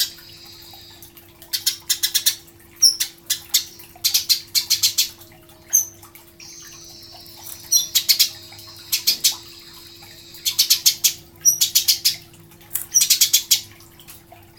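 Eurasian tree sparrows chirping: quick runs of short, high chirps in bursts every second or two, over a faint steady hum.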